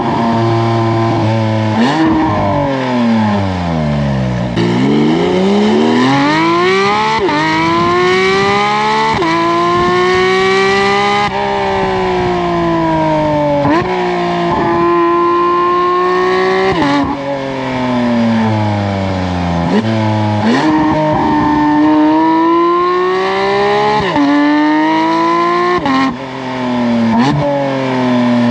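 Porsche 992 GT3 RS naturally aspirated flat-six through a full titanium valved sport exhaust, driven hard: the engine note climbs and falls again and again, with quick gear changes that break it sharply every few seconds.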